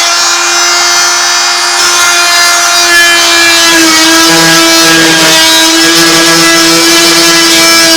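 Handheld electric woodworking power tool running at full speed on oak, its motor giving a loud, steady whine that dips slightly in pitch about four seconds in as it takes the load of the cut.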